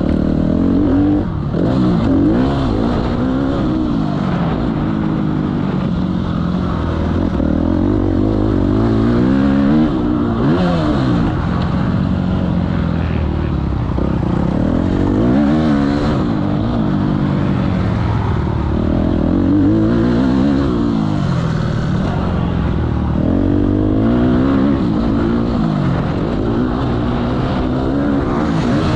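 Motocross bikes revving hard and easing off again and again, the engine pitch rising and falling every few seconds, with more than one engine heard at once.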